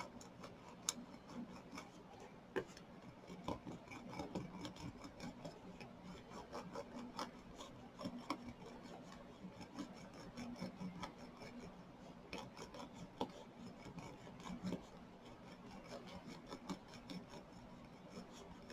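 A brayer rubbed back and forth under firm pressure over the resin drills of a diamond-painted plastic keychain on a hard surface, pressing the drills down to seal them in: faint rubbing with many small, irregular clicks.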